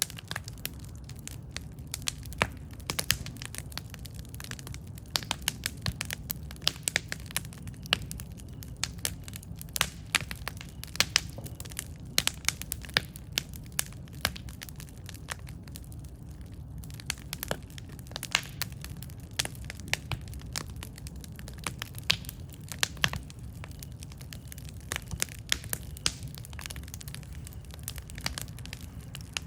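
Wood campfire burning, with frequent sharp, irregular crackles and pops over a steady low rumble of the flames.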